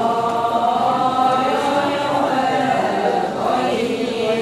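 Ponung dancers chanting the refrain together as a chorus in answer to the lead singer's line. Many voices blend into one sustained, slightly wavering chant.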